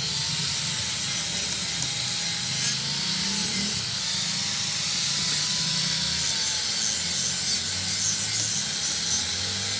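Steady machine noise with a faint, wavering high whine running through it.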